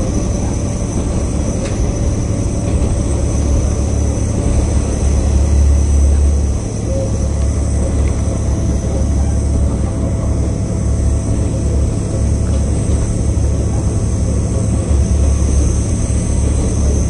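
Steady low rumble of a KiHa 40/47-type diesel railcar under way, heard from inside the passenger car: engine drone mixed with running noise from the wheels and track.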